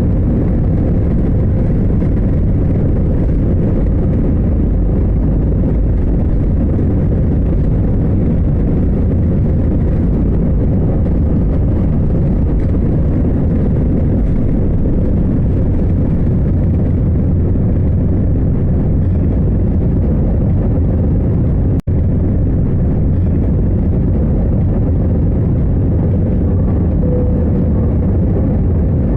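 Airliner cabin noise: a steady, deep rumble of engines and airflow with no change in pitch, broken by a split-second gap about 22 seconds in.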